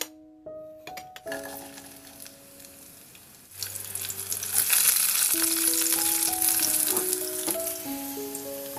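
Red chilies and garlic sizzling as they fry in hot oil in a wok, stirred with a spatula. The sizzle jumps up sharply about three and a half seconds in and eases off toward the end. There are a few light glass clinks near the start.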